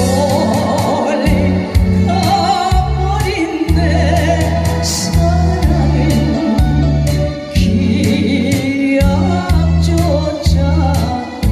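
A singer performing a song over loud accompaniment with a steady beat and a heavy bass line.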